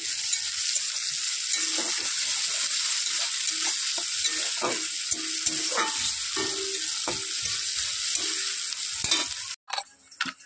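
Sliced onions and dried red chillies sizzling in hot oil in a wok, a spatula scraping and stirring them in repeated strokes. About nine and a half seconds in the sizzling cuts off suddenly, followed by a couple of faint knocks.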